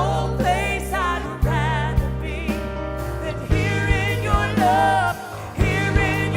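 Live gospel worship music: a singer holds wavering, vibrato-laden notes over steady low bass chords, with drum hits marking the beat.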